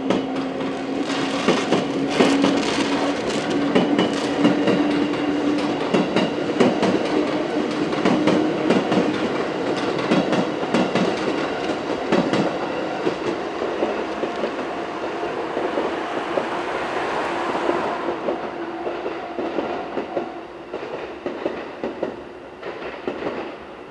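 221 series electric multiple unit passing close by, its wheels clattering rapidly over the rail joints, with a steady tone underneath. The clatter eases off near the end as the train moves away.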